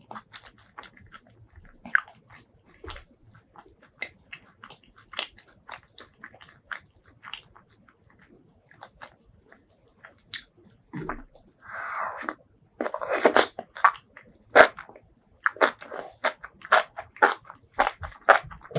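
Close-miked eating: rapid wet mouth clicks from biting and chewing, growing denser and louder through the second half, with a longer noisy rush of about a second around two-thirds through.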